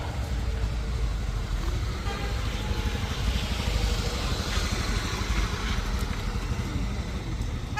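Road vehicle engines running with a steady low rumble as traffic works up a steep grade, and a horn starts right at the end.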